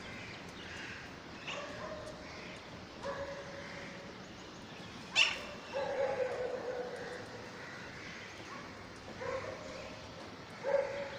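Baby parrots calling in short, whiny cries, with a sharp squawk about five seconds in that is the loudest sound.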